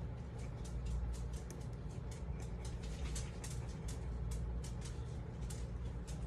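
Quick, scratchy strokes of a pen or marker colouring on paper, several a second, over a steady low hum.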